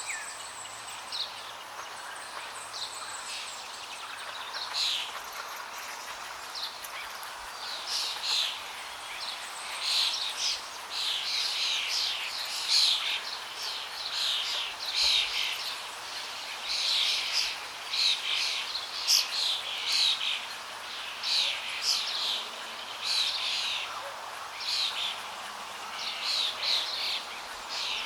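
Birds chirping and calling over a steady rush of flowing water; the chirps become busier about eight seconds in.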